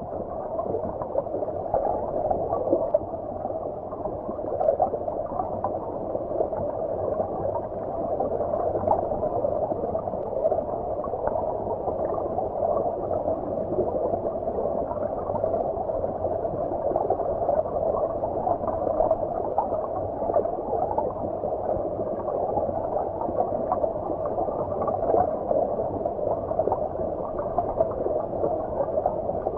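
Stream water heard underwater: a steady, muffled gurgling rush with all the brightness gone, carrying faint small clicks and bubbles.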